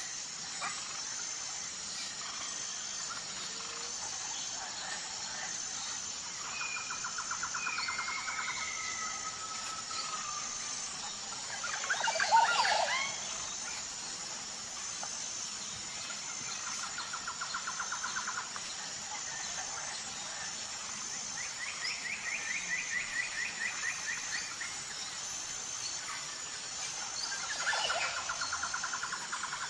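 Forest birds calling. Rapid trills two to three seconds long come back every few seconds, with some whistled glides, and a loud burst of calls just before the middle. A steady, evenly pulsing high-pitched tone runs beneath.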